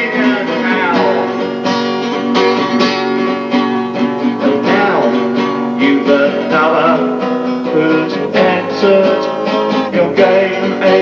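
Acoustic guitar strummed steadily in an instrumental passage of a song, with a melody line that bends up and down over the chords.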